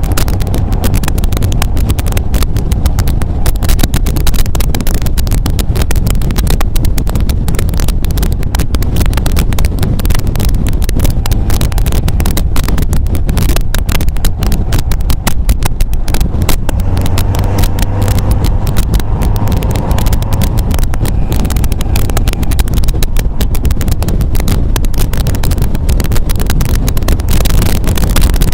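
MGA roadster's four-cylinder engine running on the road, with heavy wind buffeting on the microphone. The engine note grows stronger for a few seconds just past the middle.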